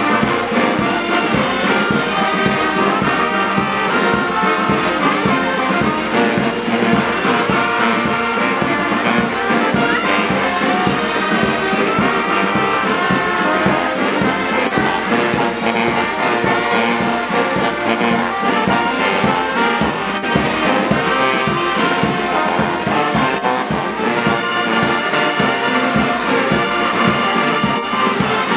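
Brass band music with trombones and trumpets, playing continuously.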